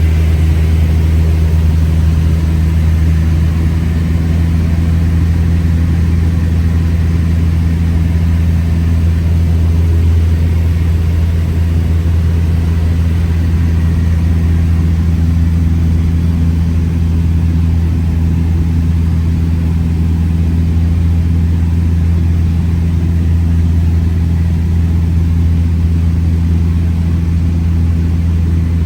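Cessna 172's piston engine and propeller droning steadily in cruise, a constant low hum with no change in pitch.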